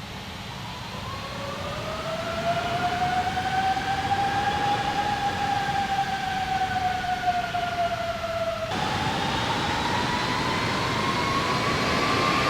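Whine of an Airbus A330-300's turbofan engines spooling up, the tone rising in pitch and loudness over a rumble of jet noise. It sags slightly, then changes abruptly about nine seconds in to a new tone that climbs again.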